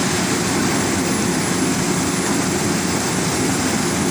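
Steady, even roar of frying at a street-food stove: the gas burner under the pan running with hot oil sizzling as tofu and egg fry.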